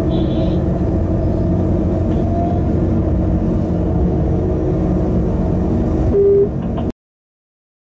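Steady low rumble and hum of a freight train running, heard from the locomotive cab. A short, steady, higher tone sounds briefly near the end. Then all sound cuts off abruptly, about seven seconds in.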